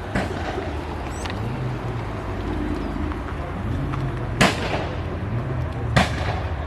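Car engine revving up and down with sharp exhaust bangs: two loud cracks in the second half and fainter pops near the start.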